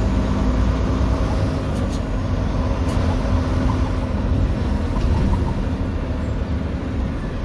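Semi truck's diesel engine running steadily while driving, heard from inside the cab as a low, even rumble mixed with road noise.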